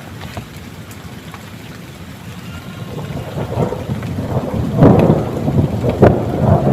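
Heavy rain falling steadily, then a roll of thunder builds from about halfway through into a loud rumble with sharp cracks.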